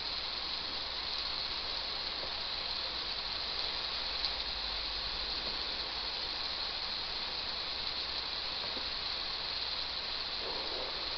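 Steady, even hiss with no distinct events, brightest in the upper treble.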